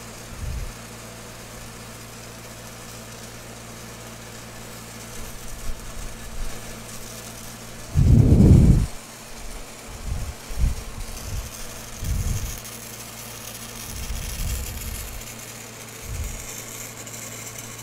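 Engine-driven welding machine running steadily at idle, with scattered low thumps and bumps, one much louder about eight seconds in. From about eleven seconds a faint high hiss joins in.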